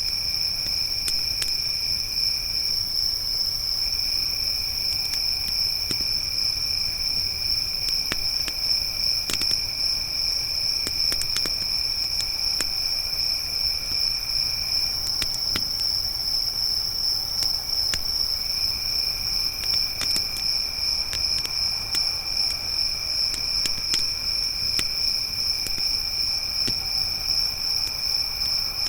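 Crickets trilling steadily in a chorus, one higher voice continuous and a lower one that pauses twice, with the scattered sharp pops and crackles of a wood campfire.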